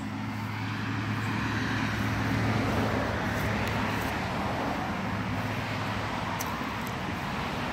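An engine running steadily under a broad rushing noise that swells a couple of seconds in and then eases.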